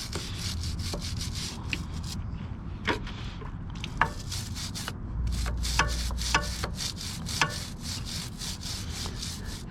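A brush scrubbing a motorcycle chain in quick back-and-forth strokes, about four a second, with a few sharper metallic clinks from the chain.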